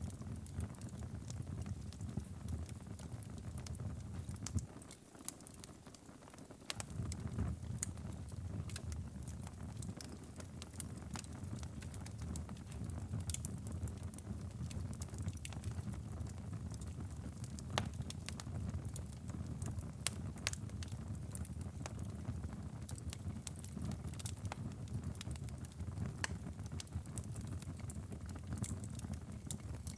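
Wood fire crackling, with frequent sharp pops over a steady low rumble that drops away for about two seconds around five seconds in.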